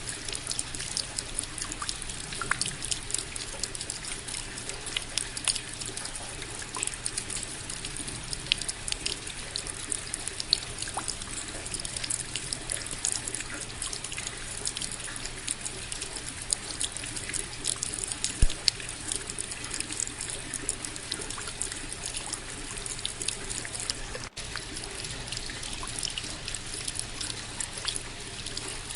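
Steady rain with many close, individual drop hits and some trickling water, even and unbroken apart from a split-second dropout about 24 seconds in.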